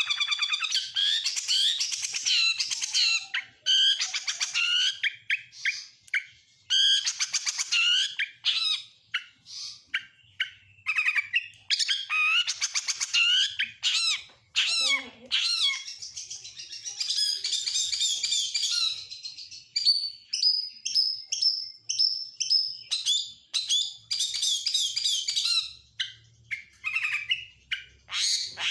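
Oriental magpie-robin (kacer) singing a long, varied song of fast chirps, trills and whistled phrases. The song is packed with mimicked calls of other songbirds such as lovebird, canary and prinia. About two-thirds of the way through comes a string of short rising whistles.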